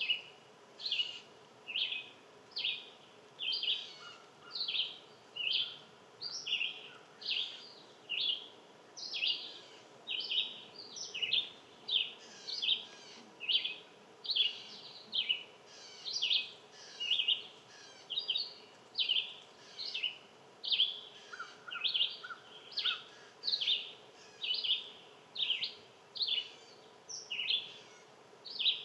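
A short, high call repeated very steadily, about three calls every two seconds, from a small animal. A few fainter, lower chirps come in about two-thirds of the way through.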